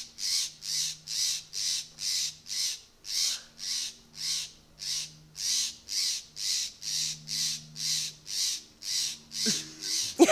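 An adult bird giving harsh, raspy scolding calls over and over, about two and a half a second, at a cat that has killed its young. Its voice is starting to go hoarse from calling so long.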